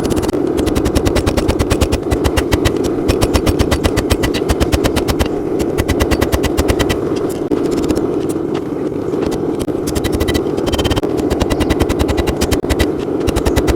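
Rapid, evenly paced hammer blows on hot steel, many a second, as drawknife handle stock is forged out, over the steady roar of the forge.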